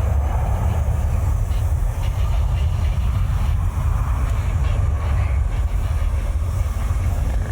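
Jet airliner engines giving a loud, steady low rumble as the plane passes during takeoff or landing.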